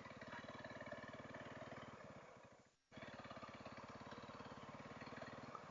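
Honda CRF300L single-cylinder engine running steadily under way, faint and even. The sound cuts out briefly about halfway through, then comes back.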